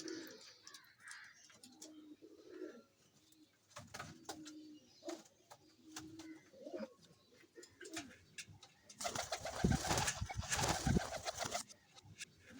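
Pigeons cooing in low, repeated calls, with scattered clicks. A loud rustling noise runs from about nine seconds in until shortly before the end.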